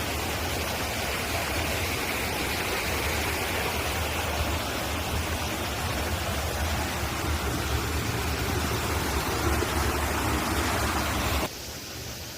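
Steady rush of a mountain stream. Near the end it drops abruptly to a quieter steady hiss.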